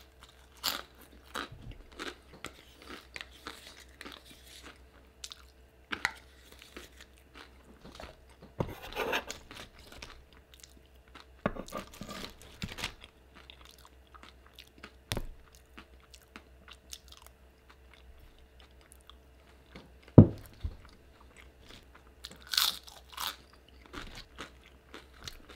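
Crunching and chewing of tortilla chips in irregular bites, with one sharp knock about twenty seconds in.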